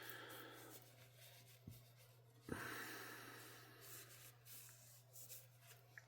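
Faint rubbing of a cloth wiping down a folding knife, in two soft stretches, with a small knock about two and a half seconds in.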